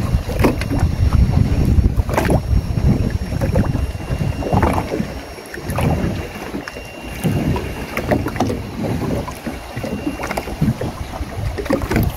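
Wind buffeting the microphone in an uneven low rumble, with water lapping at a small boat's hull and a few sharp knocks.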